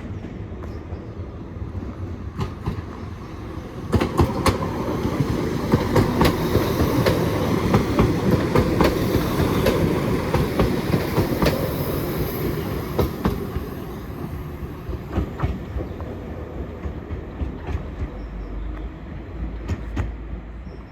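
Passenger train passing through the station at speed, its rumble swelling about four seconds in and fading away, with wheels clicking over the rail joints.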